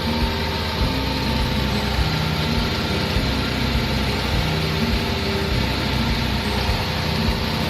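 An abra water taxi's diesel engine running steadily with a low drone as the boat pulls away from the dock, over a constant hiss of wind and water.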